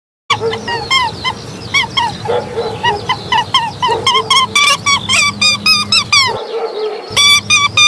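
A rapid series of short, high animal calls, several a second and overlapping, starting suddenly just after silence and breaking off briefly about six and a half seconds in.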